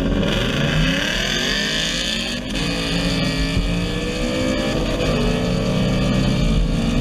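Ford Mustang's Coyote 5.0 V8 accelerating hard, its pitch rising steadily. There is a brief break about two and a half seconds in, as at a gear change, and then it climbs again more slowly.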